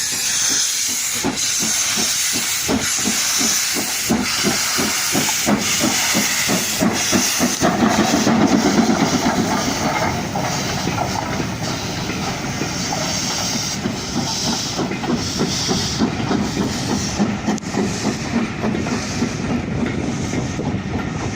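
LMS Princess Coronation Class 4-6-2 steam locomotive Duchess of Sutherland pulling away, hissing steam, with sharp exhaust beats that come quicker over the first seven seconds or so. The beats then merge into a louder, steady rush of steam and exhaust as it gathers speed.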